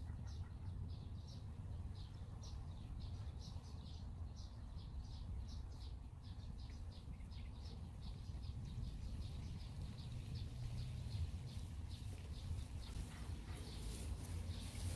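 A small bird chirping over and over, a steady run of short high chirps a few times a second, over a low steady rumble.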